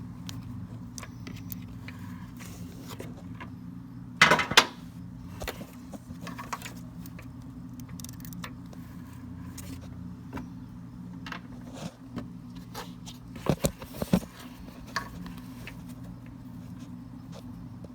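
Hand tools and bolts clinking and rattling against metal while a timing chain tensioner is unbolted, with a few louder clanks about four seconds in and again near fourteen seconds. A steady low hum runs underneath.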